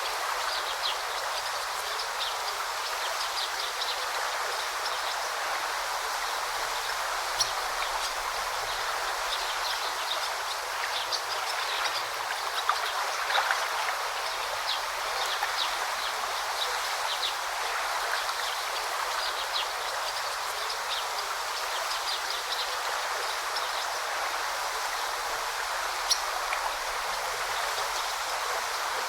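A stream flowing steadily over stones, with short high bird chirps scattered through. A few sharp ticks stand out briefly near the middle and near the end.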